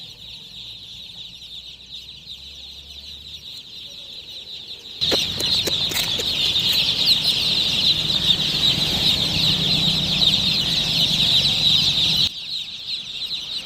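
A large group of baby chicks peeping in a dense, continuous chorus of overlapping high chirps. It grows suddenly much louder about five seconds in and drops back abruptly near the end.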